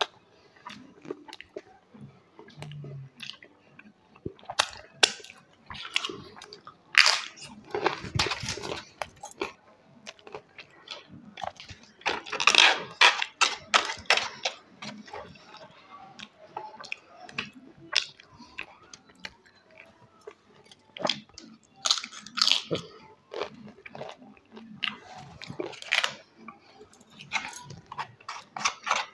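A person eating close to the microphone: chewing with crunchy bites, coming in irregular bursts of crackling clicks.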